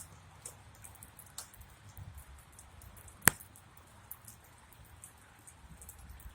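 Rain dripping: scattered drops tick irregularly, with one sharp, much louder click about three seconds in.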